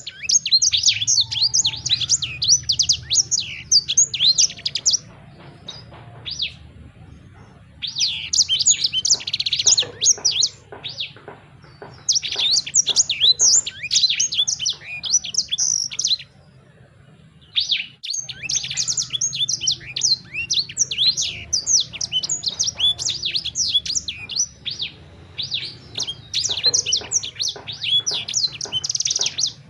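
Songbird singing in bursts of rapid, high chirps and trills, each lasting several seconds with short pauses between, over a steady low hum.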